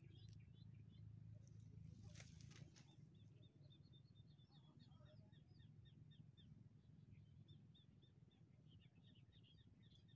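Faint birdsong: small birds giving a long run of quick, high chirps, with a brief rustle about two seconds in, over a low steady rumble.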